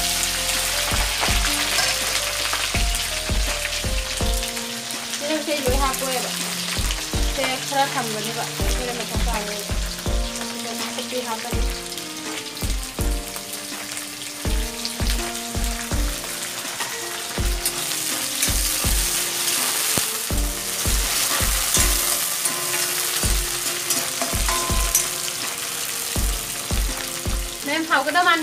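Food sizzling in hot oil in an iron kadai while a metal spatula stirs and scrapes through it. Background music with a steady beat plays underneath.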